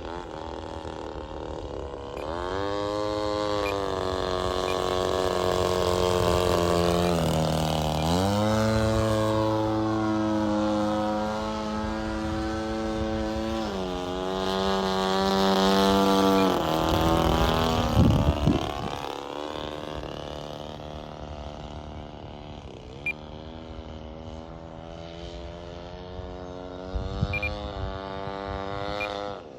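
Seagull Models Shock Cub radio-control airplane in flight, its motor and propeller droning and sliding up and down in pitch as the throttle changes and the plane passes by. A brief loud rumble comes about eighteen seconds in.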